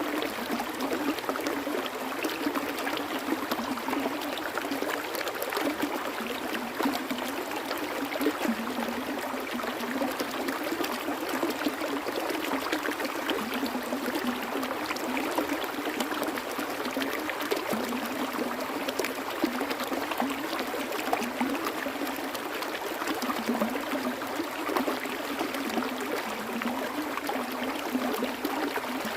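Flowing stream water running steadily, a continuous rush made of many small splashes.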